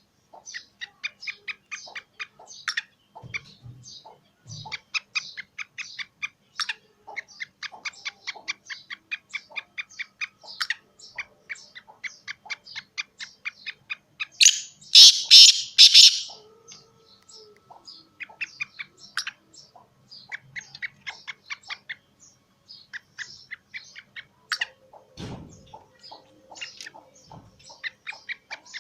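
Small birds chirping in quick, repeated short notes, several a second, with a louder, harsher burst of calls about halfway through that lasts a second or two.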